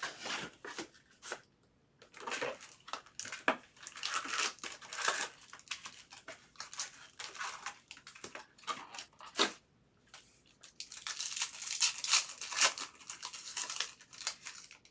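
Trading-card box and foil pack wrappers being torn open and crinkled by hand, in irregular rustling bursts with a few sharp snaps.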